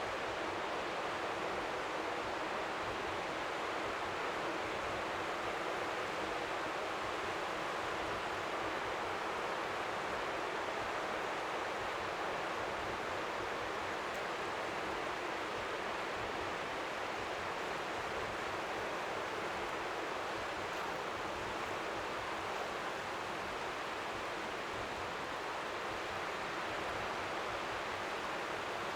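Strong wind by the sea with faint waves lapping beneath it, blending into a steady, even hiss like white noise.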